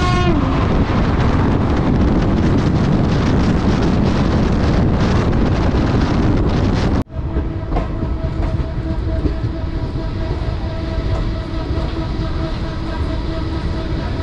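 A passing train's horn ends with a drop in pitch right at the start, then the loud rush and rattle of an electric-locomotive-hauled train passing close on the next track, heard from an open coach door. About seven seconds in the sound cuts to the quieter, steady running of the coach rolling slowly through a station, with a faint steady two-note hum.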